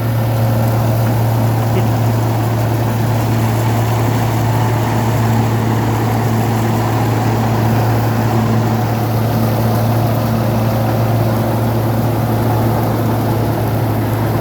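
Massey Ferguson 1035 tractor's three-cylinder diesel engine running steadily at constant speed under load, powering a straw-chopping (tudi) machine, the engine hum and the machine's rotating rumble blended into one unbroken drone.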